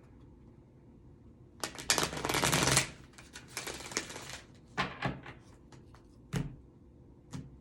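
A deck of tarot/oracle cards being shuffled: a loud, dense fluttering run of rapid card clicks about a second and a half in, lasting just over a second, followed by a few separate short taps and knocks of the cards.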